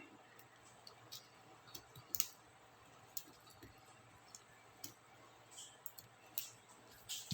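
Small, sharp plastic clicks and ticks, irregular and scattered, from laptop keyboard keycaps and their clips being pried off and handled.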